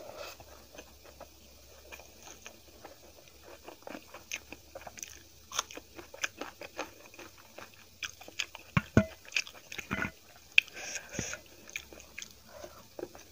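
Close-miked eating: wet chewing, mouth clicks and crunchy bites. The sounds come sparse at first, then grow denser and louder, with the sharpest snaps a little past the middle.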